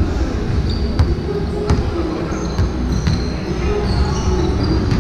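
Basketball bouncing on an indoor court, with several sharp thuds, amid short high squeaks and players' voices echoing in the hall.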